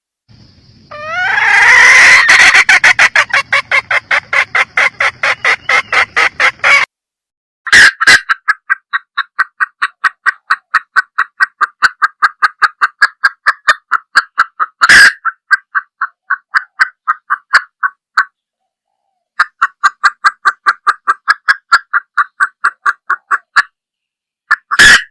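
Junglefowl hen calling: long runs of short, rapid clucks, about four a second, broken by brief pauses. The first run rises in pitch at its start and stops abruptly.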